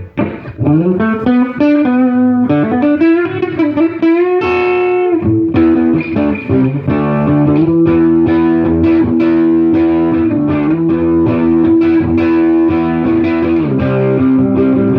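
Gibson SG Standard electric guitar played through a 1968 Fender Super Reverb tube amp with its reverb switched on. It opens with bent notes sliding up in pitch, then moves to fast picked notes over held notes.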